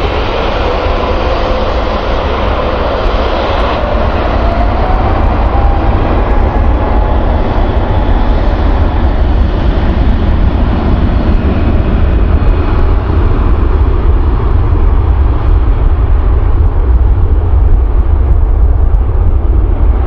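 Jet airliner engines running at high power, a whine rising in pitch over the first several seconds and then holding steady over a constant low rumble, growing slightly louder toward the end.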